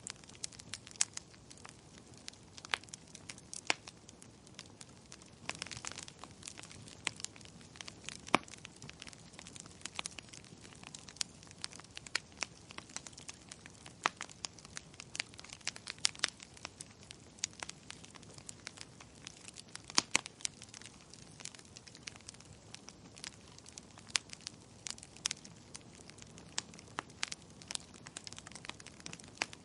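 Fireplace fire crackling: irregular sharp pops and snaps over a soft, steady hiss, with a few louder pops among them.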